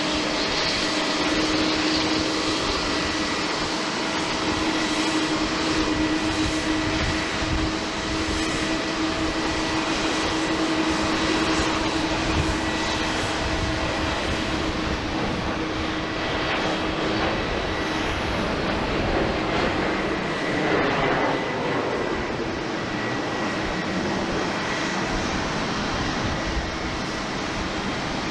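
Jet engines of an Embraer E190 airliner running steadily: an even jet rush with a low hum and a faint high whine. The hum drops out a little over halfway through.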